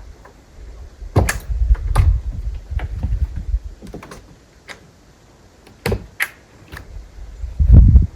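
Scattered clicks and knocks with low thumps, the loudest thump near the end.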